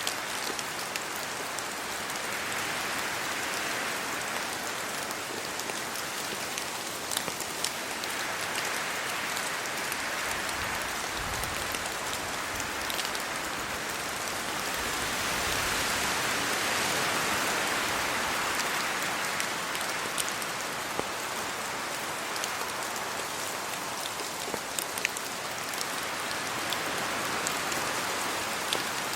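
Steady rain falling on trees and leaves, with wind gusting through them so the hiss swells and eases every several seconds. Scattered sharp ticks of single drops hitting nearby.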